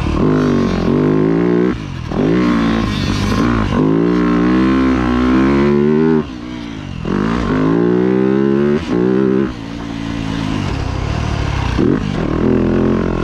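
Four-stroke single-cylinder engine of a 2025 Yamaha YZ250F motocross bike, revving hard on the track. Its pitch climbs repeatedly, and the throttle is chopped briefly about two seconds in, again around six seconds, and near nine and a half seconds.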